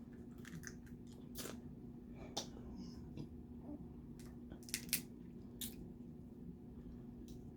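Eating snow crab legs and crawfish: scattered sharp clicks and cracks of shell with wet squishing and chewing, the loudest a quick double crack about five seconds in. A steady low hum runs underneath.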